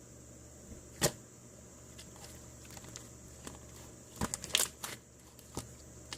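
Slime being played with by hand, giving sharp sticky clicks and pops: one about a second in, a quick run of them around four and a half seconds, and another near the end.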